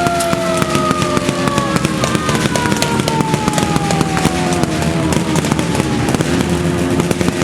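A siren winding down, its pitch falling slowly over several seconds until it fades about six seconds in. Dense crackling and popping and a steady low engine hum run throughout.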